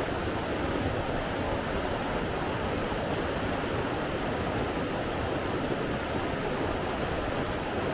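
Steady rushing water, an even, unbroken hiss with no swells or pauses.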